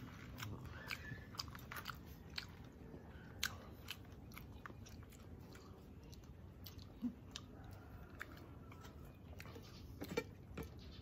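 A person chewing and eating, with scattered short sharp clicks; the sharpest click comes about ten seconds in.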